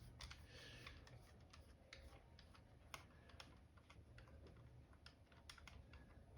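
Faint, irregular light clicks and taps of small parts being handled on a laptop under repair, as screws are being taken out of its keyboard.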